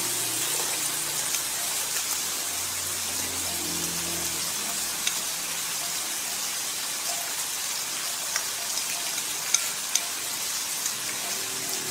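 Shrimp and squid sizzling in oil in a frying pan, a steady hiss. A few light clicks fall in the second half as diced vegetables are scraped into the pan from a plate with chopsticks.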